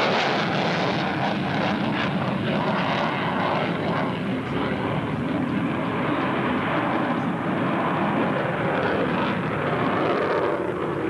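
Aircraft engine noise from an airplane in flight, a steady, dense sound.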